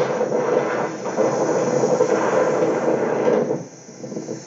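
Steady rumbling vehicle traffic noise that drops away sharply about three and a half seconds in.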